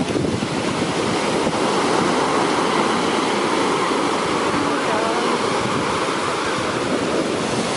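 Heavy sea surf breaking on a beach: a steady, unbroken rushing roar of water.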